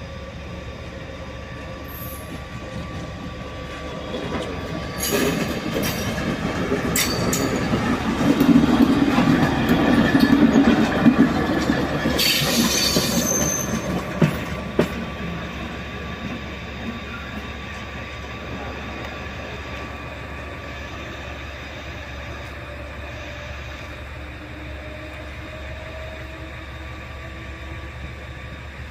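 A train moving past on the station tracks. It grows louder from about four seconds in, with a few sharp clunks, and is loudest around the middle. A brief high wheel squeal follows, then it fades to a steady low background hum.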